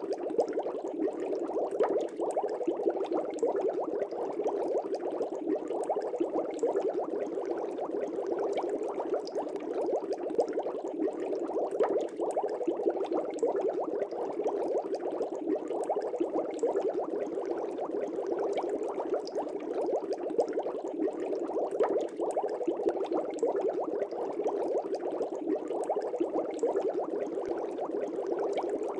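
Air bubbles streaming up through the water of a fish tank: a steady, even bubbling made of many small pops that never lets up.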